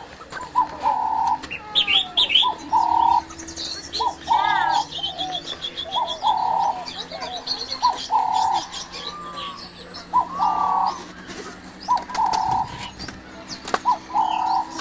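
Several birds calling. One repeats a short, steady call every second or two, over scattered higher chirps and a brief fast trill about four seconds in.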